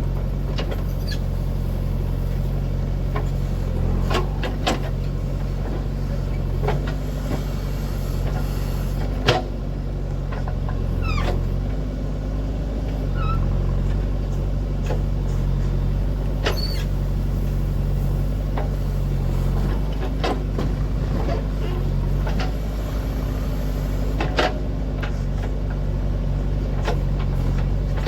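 Heavy diesel engine running steadily at an even speed, with occasional sharp clanks and a few brief high squeaks.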